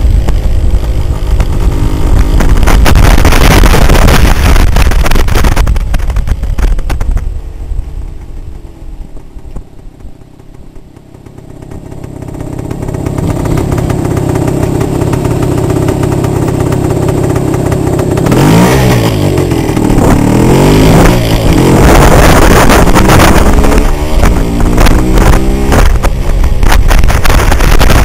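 A 1978 Yamaha DT400's single-cylinder two-stroke engine under way. It drops off to a quiet coast about a third of the way in, then builds again under throttle. In the second half its pitch rises and falls several times through the gears.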